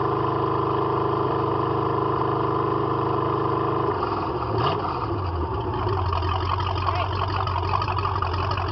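MerCruiser 233 Ford V8 marine engine running steadily. Its speed changes about four seconds in, then it settles and runs evenly.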